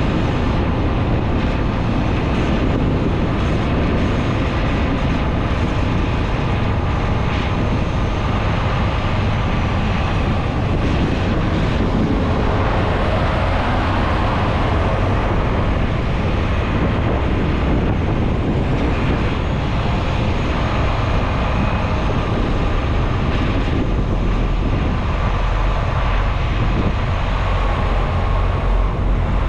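Steady diesel engine and road noise heard inside a semi-truck's cab while it is driving.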